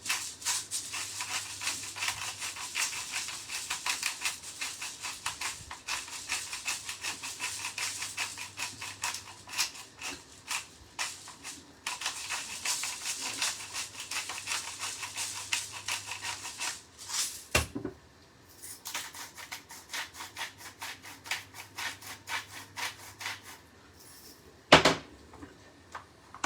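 Salt and pepper grinders being twisted: a fast, gritty ratcheting of clicks in three long runs, with short pauses between them. A sharp knock comes about two thirds of the way through and another near the end.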